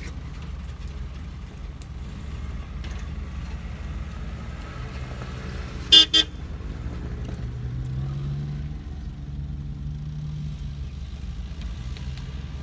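Four-wheel-drive engines running slowly over a rocky track, with two short car-horn toots about six seconds in. The engine note rises and falls as a vehicle crawls over the rocks.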